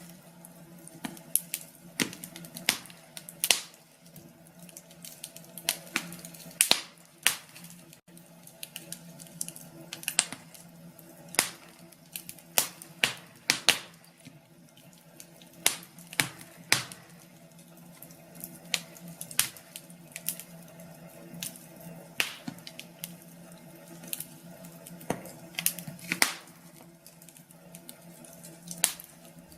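Wood fire crackling in a fireplace: irregular sharp pops and snaps, sometimes several close together, over a faint steady hiss and low hum.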